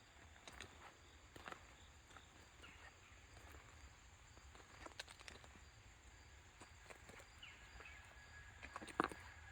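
Faint footsteps in quiet outdoor surroundings, with scattered light clicks and a few short high chirps, and one sharper click about nine seconds in.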